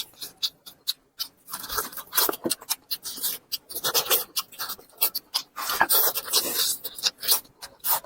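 Dogs eating close to the microphone: quick wet chewing and smacking clicks, with a few stretches of panting breaths.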